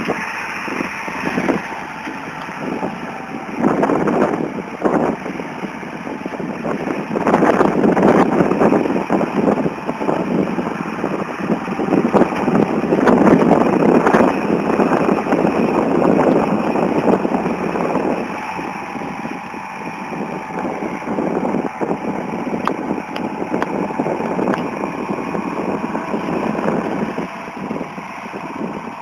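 Farm tractor engine running during manure hauling, swelling several times as the load or throttle rises, then settling to a quieter, steadier note with a faint steady hum.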